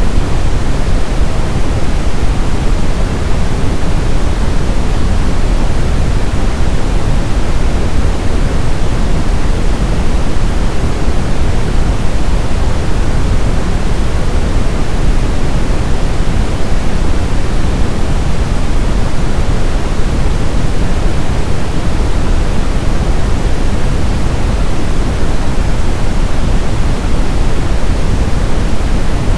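Steady brown noise: an even, unchanging hiss-rumble with most of its weight in the deep bass, falling away toward the highs.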